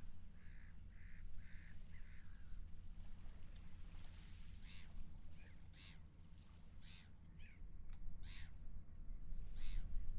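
Seagulls calling over a steady low rumble. Short, honking notes come in the first couple of seconds, then a run of louder, harsher gull cries from about halfway through.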